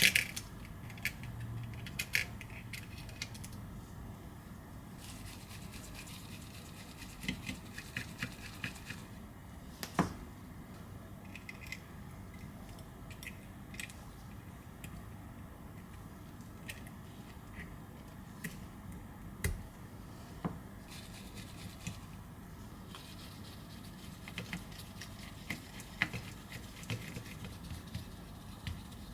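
Small metal repair tools, a precision screwdriver and tweezers, clicking, ticking and scraping against an iPhone 11's frame as screws and small parts are taken out. The clicks come irregularly, with a quick run of them partway through and a few louder single clicks.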